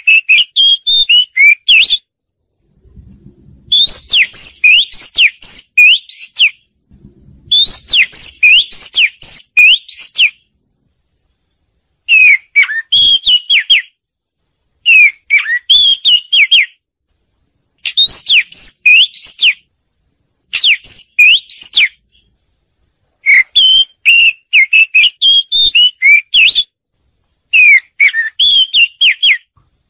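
Oriental magpie-robin song: phrases of rich, varied whistled notes sweeping quickly up and down, each phrase lasting two to three seconds. The phrases are separated by short, dead-silent gaps.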